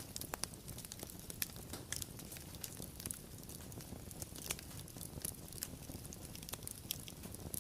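Wood fire crackling: irregular sharp pops and snaps, several a second, over a soft low rumble of burning.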